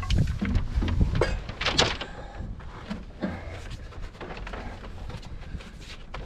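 Pull line being hauled by hand out of an electrical conduit: irregular scraping and knocks, busiest in the first two seconds, over a low rumble.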